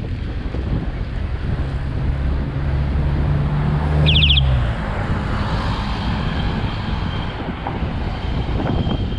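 Wind and road noise on a bike-mounted action camera while riding, with a motor vehicle's engine humming close by that fades out a little under five seconds in. A brief high squeal sounds about four seconds in, at the loudest moment.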